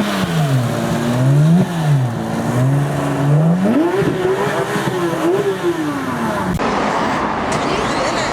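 Supercar engine being revved: a few quick blips rising and falling, then a longer rev held high and easing back down. About six and a half seconds in, the engine is cut off suddenly by a rushing noise with no pitch to it.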